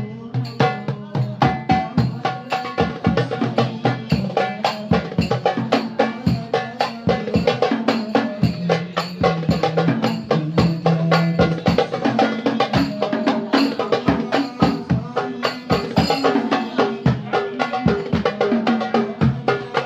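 Several darbukas played together in a fast, dense rhythm of sharp strikes, in the style of Indonesian banjari percussion.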